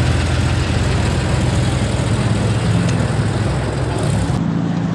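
A car engine idling with a steady low rumble. The sound changes abruptly about four and a half seconds in to a different steady low hum.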